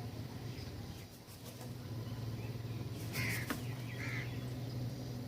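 Birds calling at a feeder: two short, harsh calls about three and four seconds in, over a steady low hum.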